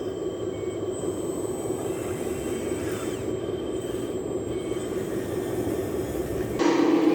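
1/14-scale radio-controlled earthmoving model running with a steady mechanical hum, which turns abruptly louder about six and a half seconds in.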